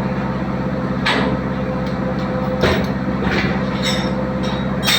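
Diesel engine running steadily with a rapid even pulse, with a few sharp metallic knocks or clanks over it.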